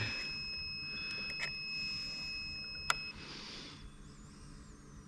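Insulation resistance tester giving a steady high beep for about three seconds while it applies its test voltage across a high-voltage battery module, with a sharp click just before the beep stops. A short beep starts again at the very end.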